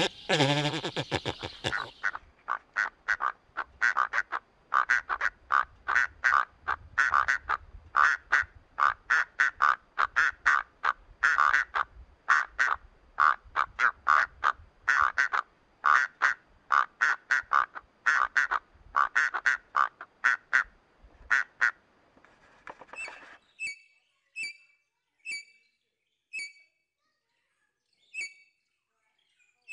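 Bird calls: a long, rapid run of short calls, several a second, that stops about 23 seconds in, followed by single higher chirps about once a second.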